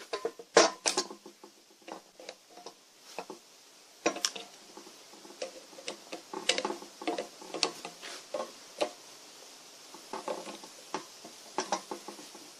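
Irregular clinks, taps and knocks of small metal parts and hand tools being handled, loudest near the start, with a faint steady hiss behind.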